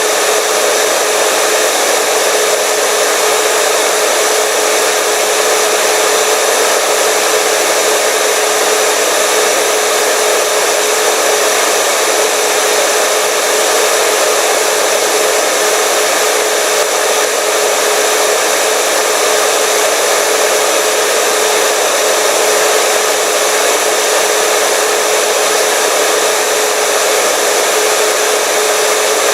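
Hair dryer running steadily: a continuous airy rush with a constant motor hum.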